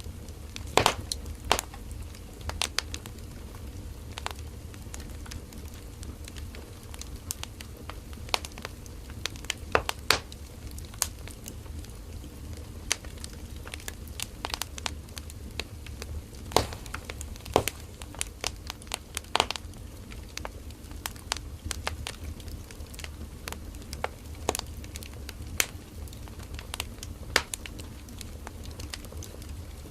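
Firewood burning in a campfire, crackling and popping: sharp irregular pops, several a second at times, over a steady low rumble of the flames.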